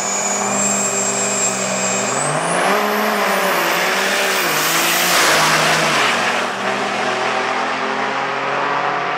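Turbocharged diesel drag-racing pickups making a pass down the strip. A high turbo whistle climbs in pitch about two seconds in, and the engine note rises and drops several times as they accelerate.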